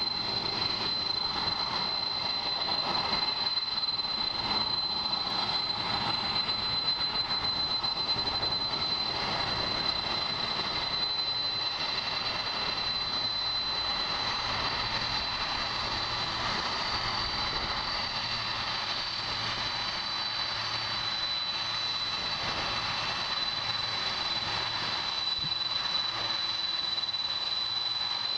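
Boeing 747 jet engines running steadily: a broad rushing noise with a high, steady whine over it.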